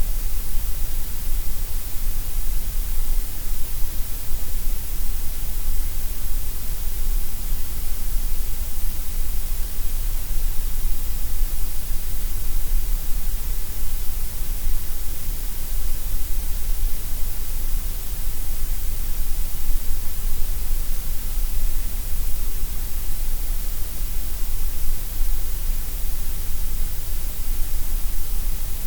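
Gray noise: a steady, even hiss, strongest in the deep bass and the highest treble and dipping through the middle.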